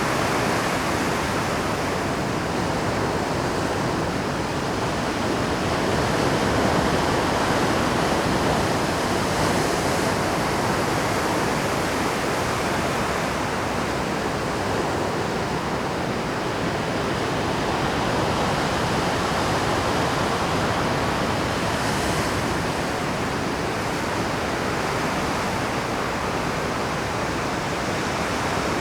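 Rough Pacific surf breaking over shore rocks at high tide: a continuous, dense wash of breaking waves that swells and eases slightly in loudness, with no single crash standing out.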